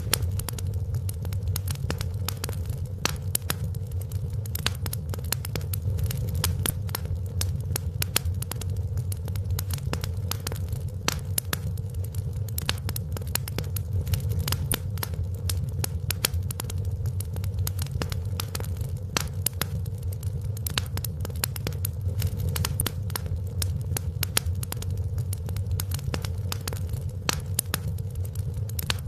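Wood fire crackling steadily: many quick pops and snaps over a low, even rumble of the flames.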